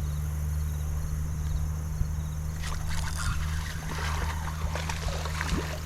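Steady low engine hum, with water splashing and clicking from about three seconds in.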